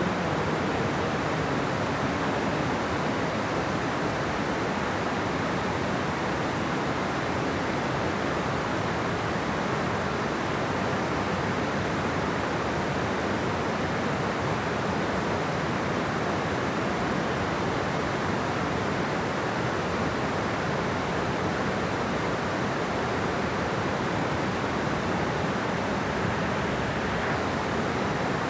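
Steady, unbroken rush of water flowing at a dam, an even noise that doesn't change.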